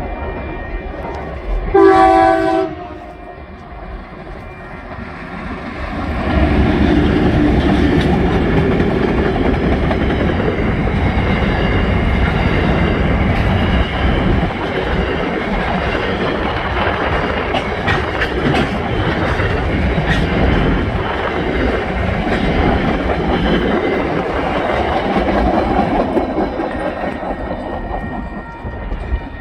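TasRail TR-class diesel-electric locomotive sounds its horn in one short blast about two seconds in. From about six seconds it and a train of empty ballast wagons pass close by, engine running and wheels clattering over the rails, until it fades near the end.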